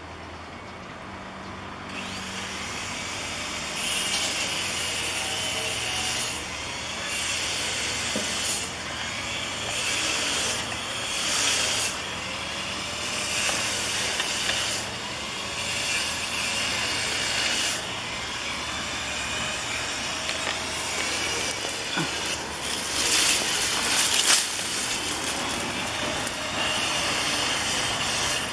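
Slowly approaching Taiwan Railways freight train locomotive: a steady low rumble under loud hissing that comes and goes in bursts of one to three seconds, getting louder as it nears.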